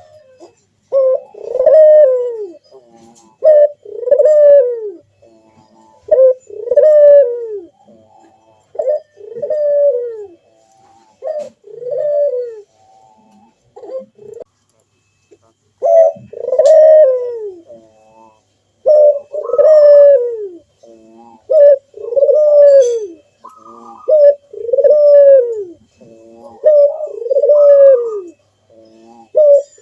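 Puter dove (Barbary dove) cooing over and over in its full 'manggung' song: each call a short opening note followed by a low, falling coo, repeated every two to three seconds, with a brief pause about halfway through.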